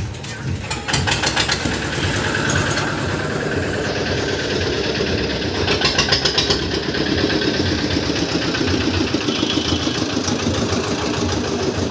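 An engine running steadily, with a few clicks about a second in and again around six seconds.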